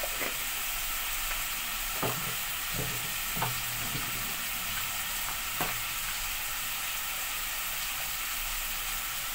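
Chicken pieces with tomato and onion frying in oil in a pot, giving a steady sizzle. A few short knocks come through it: one at the start, then about two, three and a half, and five and a half seconds in.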